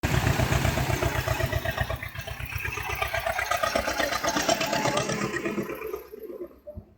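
A vehicle engine running with a steady rapid low pulse, fading away about six seconds in.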